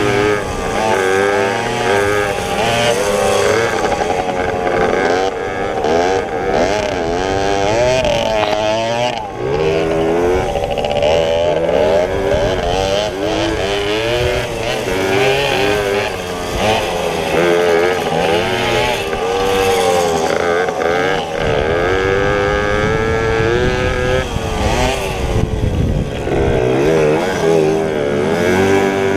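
Several pit bike engines racing together, their notes overlapping and constantly rising and falling as the riders rev, shift and back off.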